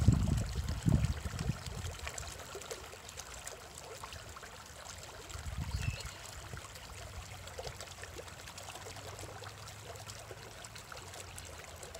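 A fast-flowing stream rushing and splashing over rocks, a steady water noise, with a low rumble in the first second or two.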